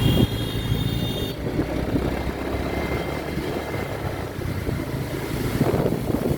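Steady low rumble of a running engine, with a few high steady tones that cut off about a second in.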